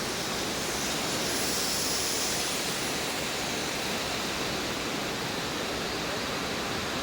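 Rain falling steadily, an even hiss that holds level throughout.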